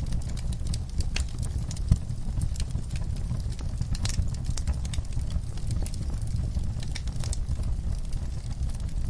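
Wood fire burning in a fireplace: a steady low rumble of flame with irregular sharp crackles and pops from the burning logs, one louder pop about two seconds in.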